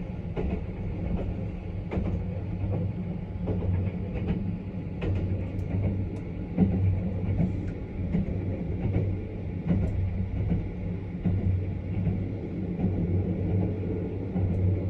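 Sunrise Izumo sleeper train (285 series electric multiple unit) running, heard inside the carriage: a steady low rumble and hum with occasional short clicks.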